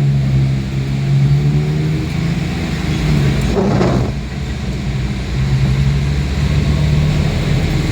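Steady low engine hum of a road vehicle, with a brief rushing noise about three and a half seconds in.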